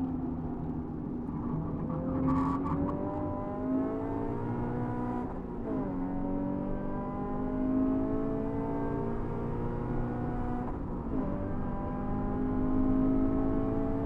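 2016 Scion FR-S's 2.0-litre flat-four engine, heard from inside the cabin, pulling hard under full throttle with a steadily rising pitch. It shifts up twice, from second to third about six seconds in and from third to fourth about eleven seconds in, the pitch dropping at each shift and climbing again.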